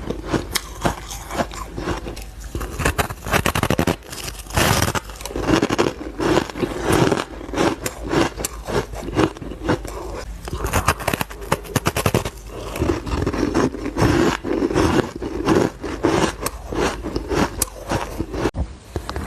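Someone biting and chewing ice close to the microphone: crisp crunching and crackling as powdery frost and hard ice break up, in repeated bites and chewing runs.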